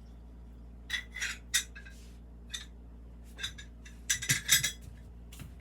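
Glazed ceramic pieces clinking and knocking against each other and a hard surface as they are handled, a few clinks about a second in and a busier run of them near the end.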